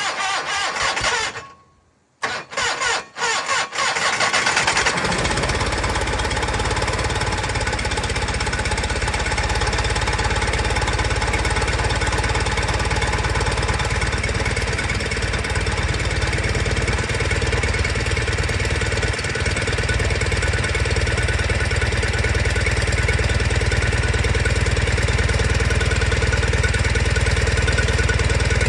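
1992 John Deere 318 garden tractor's Onan two-cylinder engine being cold-started after a night at about zero degrees. It turns over, stops a second and a half in, sputters through a few more short tries, catches about five seconds in, and then runs steadily.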